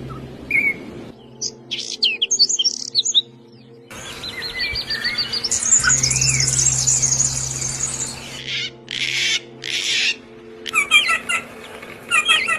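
Songbirds chirping and calling: quick high chirps, a rapid trill, a few harsh noisy calls and clipped repeated chirps. The clips are spliced together with abrupt changes, and a low steady hum runs under some of them.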